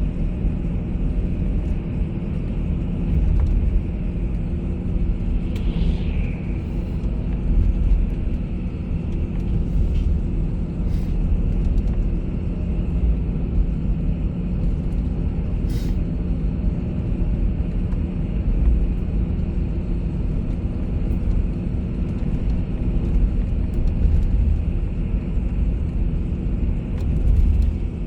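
Steady low rumble of a bus on the move, engine and road noise with no change in speed, with a few faint clicks and a brief higher chirp about six seconds in.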